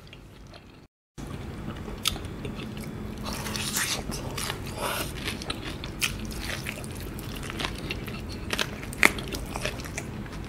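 Close-miked biting and chewing of fried chicken coated in Samyang spicy sauce, with a run of sharp clicks. The sound drops out completely for a moment about a second in.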